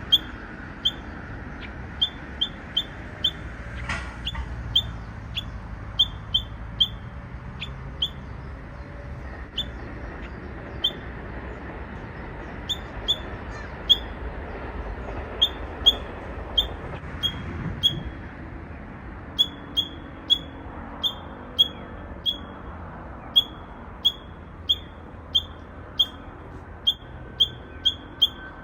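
Japanese bush warbler giving an odd call instead of its usual song: a long string of short, sharp single notes, repeated irregularly about once or twice a second, thinning out for a few seconds near the middle. The uploader thinks it may be an immature bird still practising.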